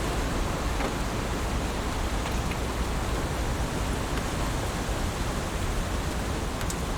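Heavy rain falling steadily: an even, constant hiss with a few faint drop ticks.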